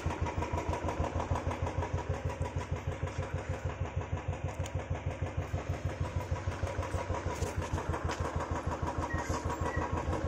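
Motorcycle engine idling at a steady, even beat, about six pulses a second.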